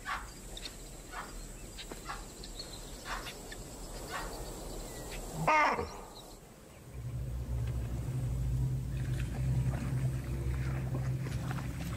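Wild animal calls: a scatter of short calls, then one loud wavering call about five and a half seconds in. From about seven seconds a steady low hum comes in and holds.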